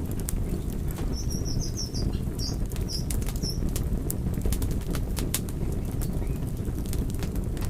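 Wood fire crackling: a steady low rumble under many sharp pops and snaps. About a second in comes a short run of high chirps lasting two or three seconds.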